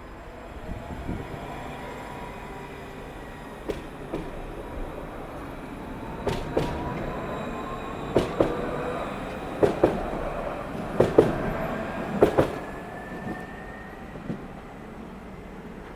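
Alstom Citadis tram pulling away and accelerating: its traction motor whine rises steadily in pitch, with pairs of sharp clacks as the wheels cross rail joints or points.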